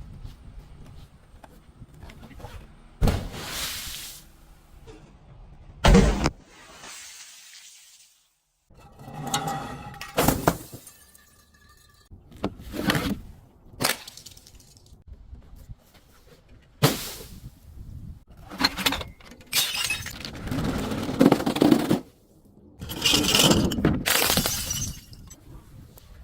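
Glass bottles breaking and shattering: a series of separate sharp breaks, then longer stretches of glass crunching and grinding near the end.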